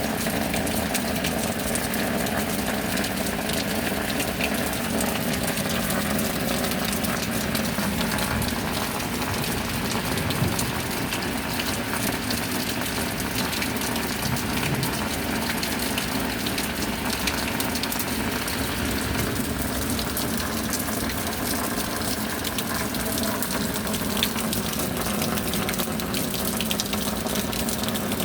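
Steady rain falling, an even wash of drops that does not change, with a faint low hum underneath.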